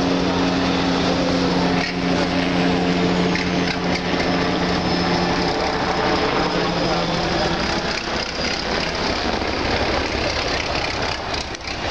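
Truck engine running at a steady held pitch that fades out about halfway through, under a constant wash of noise.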